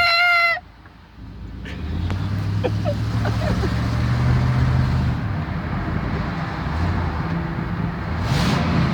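A high, drawn-out falsetto moan cuts off about half a second in. Then a car's engine and road noise run steadily, the engine pitch rising near the end as it speeds up.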